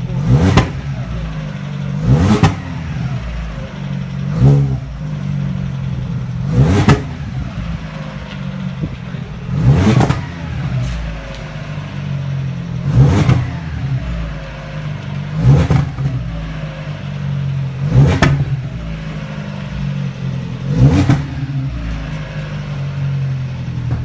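Lada car engine idling through its aftermarket exhaust and revved briefly nine times, each blip rising in pitch and falling back to idle, about every two to three seconds.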